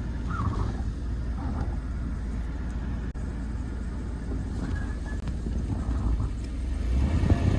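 Jeep driving through deep snow: a steady low rumble of engine and tyres, swelling louder near the end.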